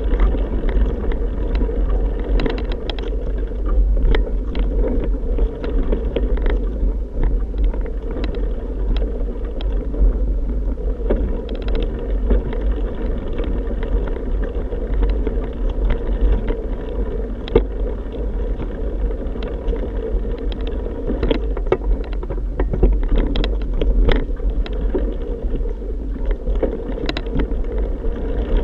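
Steady wind buffeting and road rumble from riding a bike, with frequent sharp clicks and rattles throughout.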